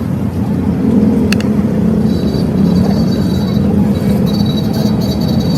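A steady low engine-like rumble, with a faint high whine joining about two seconds in.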